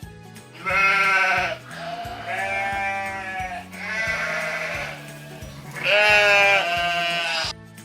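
Sheep bleating several times in a row, each call quavering, over background music with a steady bass line.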